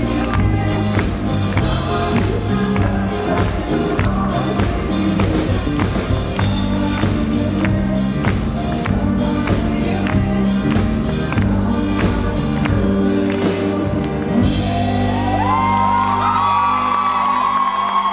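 Live pop-rock band playing with vocals over a steady drum beat. About fourteen seconds in, the drums stop and a held chord rings on under the crowd's voices singing and cheering.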